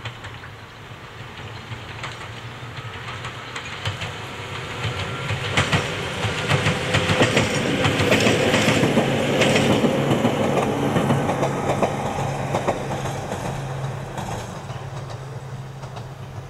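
Ohmi Railway 800-series two-car electric train (802F) passing by, its wheels clicking over the rail joints. It grows louder, is loudest about eight to eleven seconds in as it goes past, then fades as it moves away.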